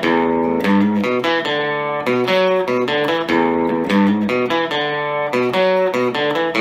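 Epiphone Casino hollow-body electric guitar played through a VOX AC15C1X valve amp on its Top Boost channel: a continuous run of picked notes and chords.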